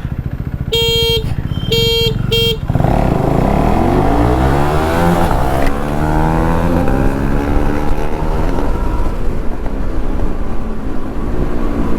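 Three short horn beeps over an idling engine, then a KTM Duke 390's single-cylinder engine revs hard at full acceleration. Its pitch climbs and drops back several times as it shifts up through the gears, with rushing wind noise.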